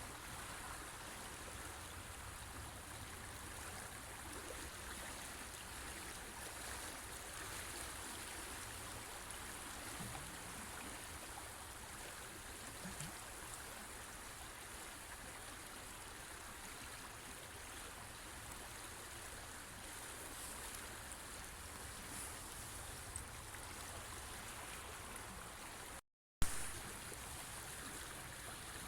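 River water flowing steadily. Near the end, the sound cuts out for a split second and comes back with a sharp click.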